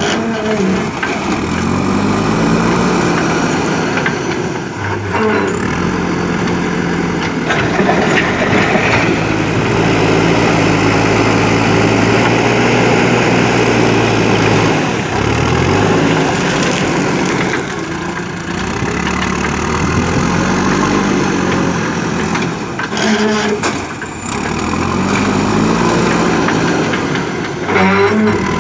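JCB 3DX backhoe loader's diesel engine running loud, revving up and falling back again and again as the machine works. A few sharp clanks break through.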